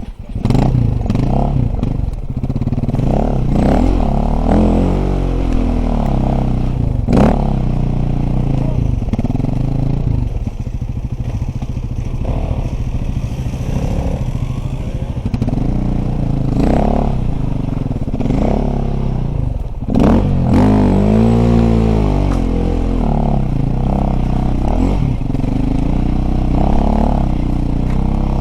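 Dirt bike engine revving up and down again and again as it is ridden, with knocks and clatter from the bike throughout.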